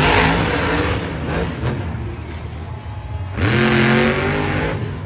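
Racing car engine revving: strong at first, easing off in the middle, then surging again with a rising pitch about three and a half seconds in.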